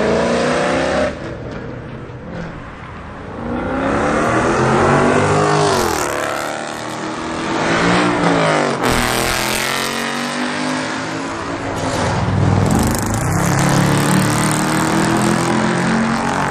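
Cars accelerating hard away from a car meet, one after another, engines revving up through the gears. Their exhaust notes climb in pitch, and one sweeps past mid-way with a quick rise and fall.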